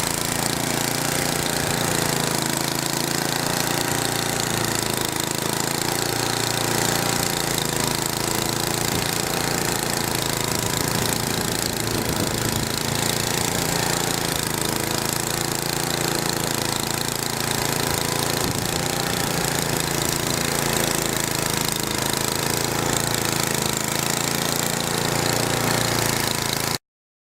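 Large snow blower's engine running steadily at close range, a rough, even mechanical drone under a dense hiss. It stops abruptly near the end.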